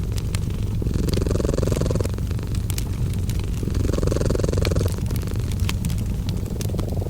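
A cat purring steadily, its purr swelling and fading with each breath about every three seconds, over a fireplace crackling with scattered sharp pops.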